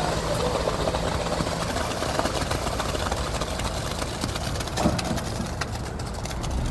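A motor running steadily, with a low hum that fades out early on and scattered faint clicks.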